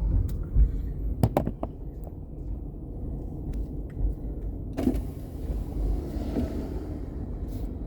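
A car's electric power window runs down while the engine idles with a steady low rumble. A few sharp clicks come about a second in.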